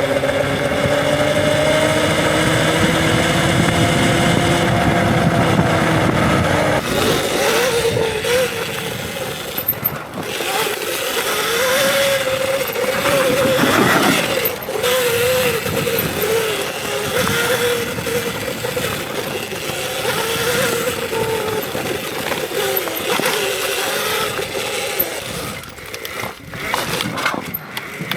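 Electric dirt bike's motor whining as it rides a trail, the pitch holding steady at first, then rising and falling with the throttle over wind and tyre noise. A few sharp knocks come from the bike over bumps.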